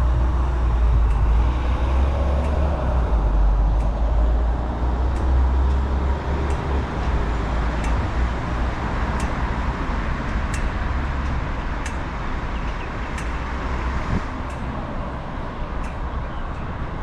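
Road traffic going by, with a deep rumble, likely from a heavy vehicle, for the first seven seconds or so that then eases off; faint regular ticks run through the second half.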